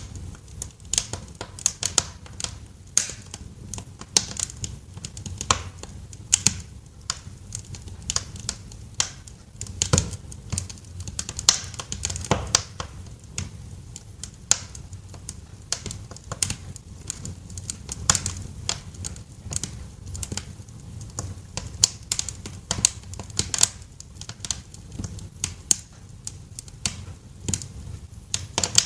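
Wood fire crackling in a fireplace: a dense, irregular run of sharp pops and snaps over a low rumble of burning logs.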